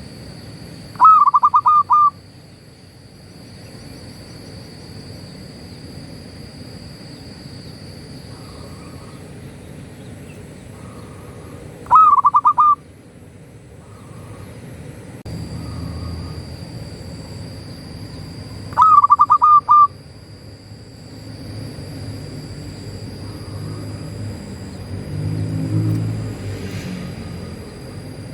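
Zebra dove (perkutut) cooing: three loud phrases of rapid pulsed notes, about a second each, near the start, about 12 s in and about 19 s in, with fainter calls in between. A steady high whine and a low rumble run underneath.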